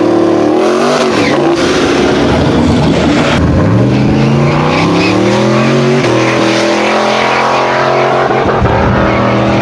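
Engine of a turbocharged 302 V8 Fox body Mustang running loudly and revving: the pitch climbs over a couple of seconds, drops about six seconds in, then holds steady.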